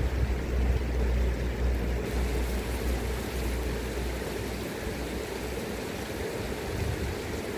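River current rushing steadily, with a low rumble strongest in the first half that fades out about halfway through.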